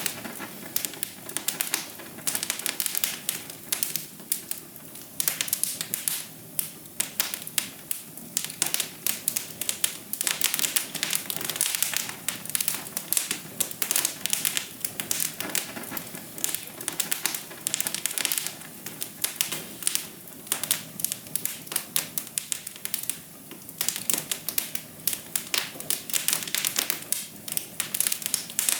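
Wood fire in a fireplace crackling and popping: dense flurries of sharp snaps over a soft hiss, with brief lulls between the flurries.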